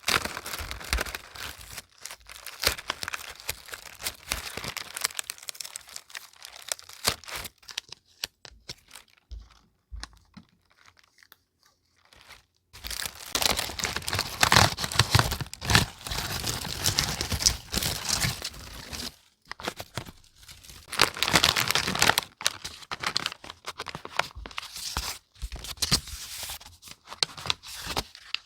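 Paper and packaging being handled: irregular crinkling and rustling in bursts, with a near-quiet pause about ten seconds in and busier, louder handling after it.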